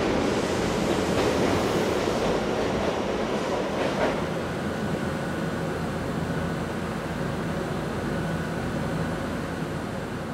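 A train rolling past on the adjacent track, a rushing rumble with a single clack about four seconds in. It gives way to the steadier, quieter hum of a stopped electric train car's equipment with a faint high whine, fading near the end.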